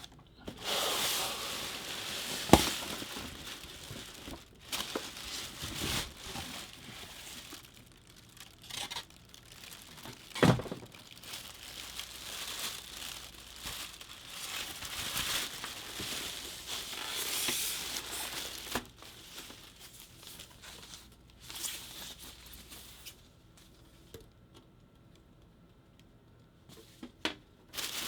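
Packaging being handled: crinkling, rustling and tearing as a food dehydrator is unpacked. There are two sharp knocks, the loudest one about two and a half seconds in and another about ten and a half seconds in, and the handling dies down to a faint lull a few seconds before the end.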